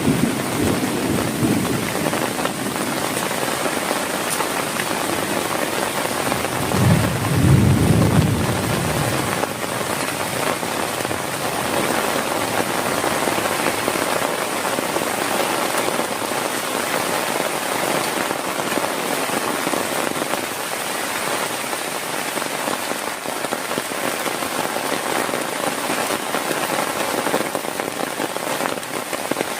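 Heavy rain pouring steadily, with a low roll of thunder swelling and fading about seven seconds in; the tail of an earlier rumble dies away at the very start.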